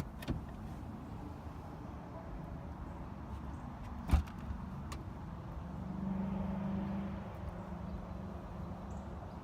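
Power tailgate of a BMW 440i Gran Coupe closing under its motor after a button press: a low mechanical hum, one sharp thump as the tailgate comes shut about four seconds in, then a steady hum for about two seconds.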